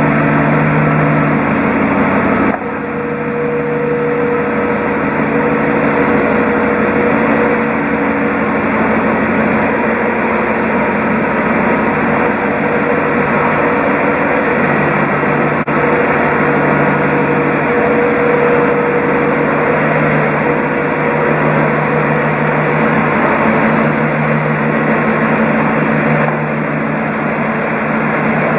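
Mercedes M119 5.0-litre V8 running at a steady speed after a full engine rebuild. The sound drops suddenly in level about two and a half seconds in and shifts again near the end.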